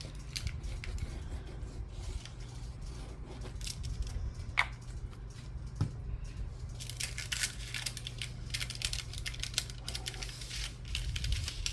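Paper being handled and worked by hand: rustling, small taps and clicks, busiest in the last few seconds, over a steady low hum.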